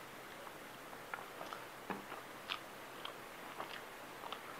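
A person eating rice and curry with her fingers, picked up close by a clip-on microphone: soft, wet chewing and lip smacks with scattered small clicks at an irregular pace.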